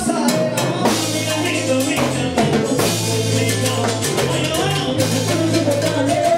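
Salsa band playing: a bass line of held low notes under drum kit and percussion strokes, with horns or keyboards filling the middle.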